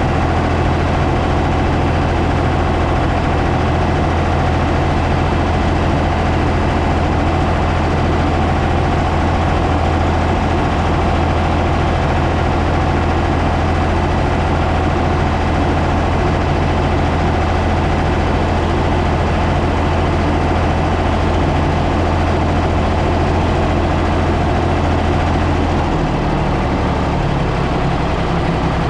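Ford 555 backhoe loader's engine running steadily, its low note shifting near the end.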